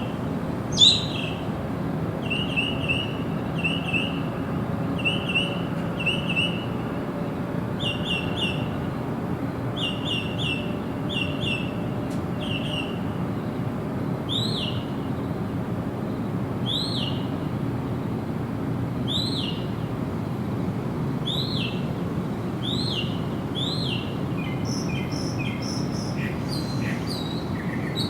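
Songbirds calling: short high chirps repeated in twos and threes. About a second in there is one loud, sharp falling call. From about halfway, a series of arched notes comes roughly once a second, over a steady low background noise.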